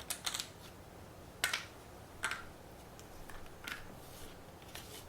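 Scattered light clicks and taps of cardboard game tiles being picked up and set down on a table, about half a dozen separate clicks.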